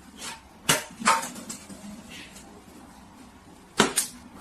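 A dog giving short barks in two pairs, about three seconds apart.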